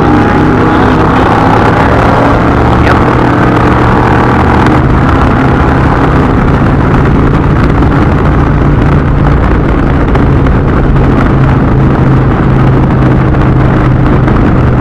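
Indian touring motorcycle's V-twin engine running steadily at cruising speed, with wind and road noise over the microphone.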